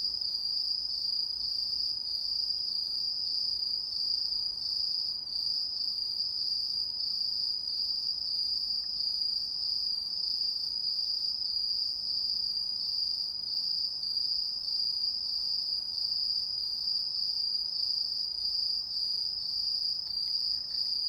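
Autumn crickets chirring in an unbroken, steady, high-pitched trill.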